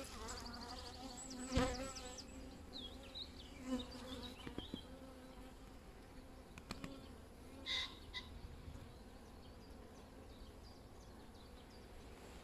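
Honeybees buzzing steadily around an open hive, a low even hum, with a couple of light knocks.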